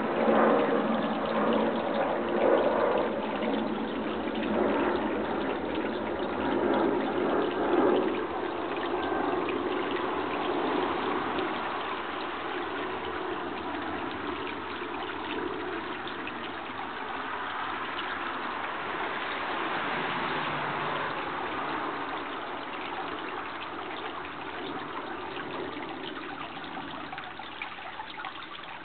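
Water running steadily, a rushing, trickling sound that is strongest in the first few seconds and slowly fades.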